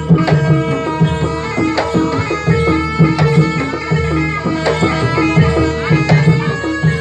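Jaranan gamelan accompaniment: hand drums play a busy, steady rhythm over a repeating pattern of pitched, ringing notes.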